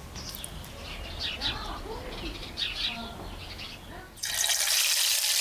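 Birds chirping. About four seconds in, a loud, steady sizzle starts abruptly as a piece of chicken goes into hot oil in a frying pan.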